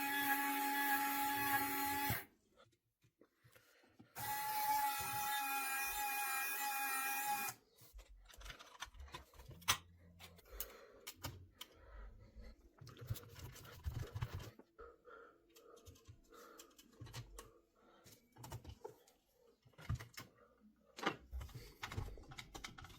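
A power tool runs in two steady whining bursts, about two and three seconds long, followed by scattered knocks and clicks of tools and parts being handled.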